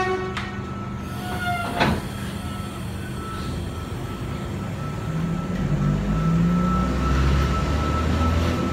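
Doors of a V-set double-deck electric train closing: short falling electronic warning tones, then the doors shut with a sharp thud about two seconds in. From about five seconds the traction motors start with a low, rising hum as the train pulls away.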